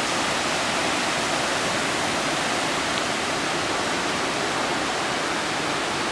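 Steady rush of a tall waterfall cascading down, a constant even roar of falling water.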